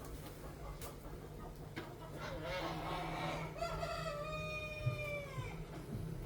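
A rooster crowing once, a long call that holds its pitch and then falls away at the end, over a steady low hum with a few clicks in the first seconds.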